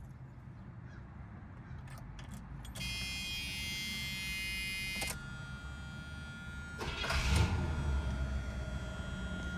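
A car engine idling with a steady low rumble. About three seconds in, a cluster of high electronic tones sounds for about two seconds, then gives way to a single steady high tone. A brief louder rush comes about seven seconds in.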